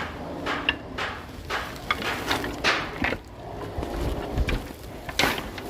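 A series of irregular knocks and short clatters, as of hard objects being handled and set down.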